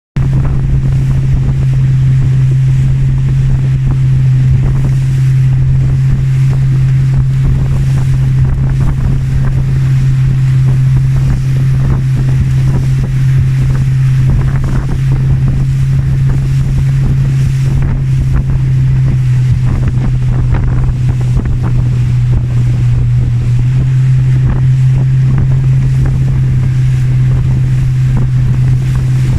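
Boat engine running at a steady, unchanging low drone, with wind buffeting the microphone and the rush of water past the hull.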